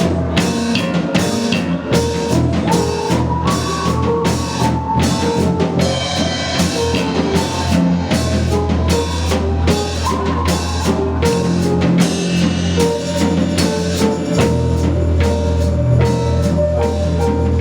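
Live band playing an instrumental passage: a drum kit keeps a steady beat over a bass guitar line, with a keyboard or mandolin carrying a melody of held notes.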